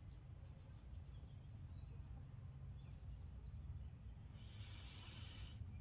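Quiet outdoor garden ambience: a low steady rumble, with a few faint bird chirps in the first couple of seconds and a soft hiss near the end.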